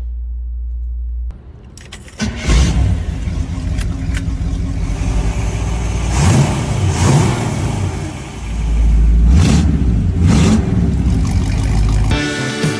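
Car engine cutting in loud about two seconds in and revved several times, its pitch rising and falling over a deep low rumble. Music comes in near the end.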